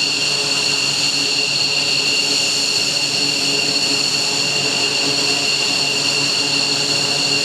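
F-15J fighter's twin F100 turbofan engines running steadily after start-up: a loud, even jet noise with a steady high-pitched whine.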